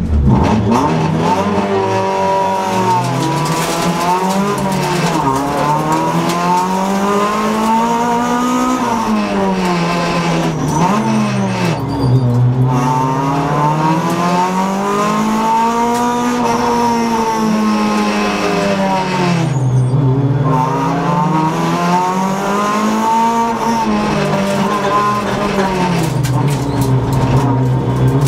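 Honda Civic rally car's engine heard from inside the cabin, revving up under acceleration and dropping back off the throttle over and over, its pitch rising and falling every few seconds.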